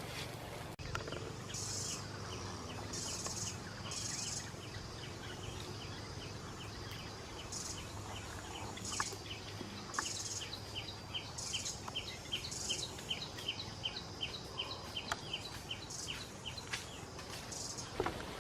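Outdoor background of wild animal calls: a long run of rapid, even, high chirps at several a second, with short high buzzing calls every second or two. A few faint knocks.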